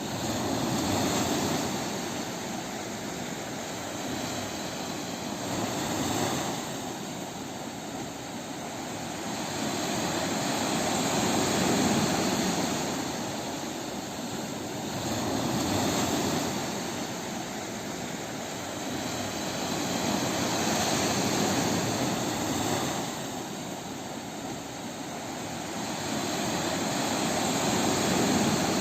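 Ocean waves breaking and washing on a beach: a continuous surf noise that swells and eases every few seconds.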